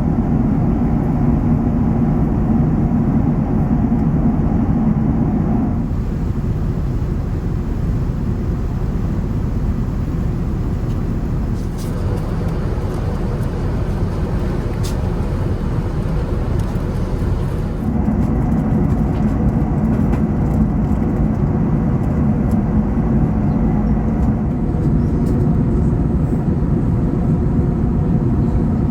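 Steady rumble of an Airbus A380's cabin in flight: engine and airflow noise, with no distinct events. Its tone changes abruptly a few times, about 6, 12 and 18 seconds in.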